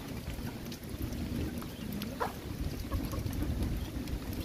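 Steady rain with wind rumbling on the microphone and scattered small ticks, and one short rising peep about two seconds in.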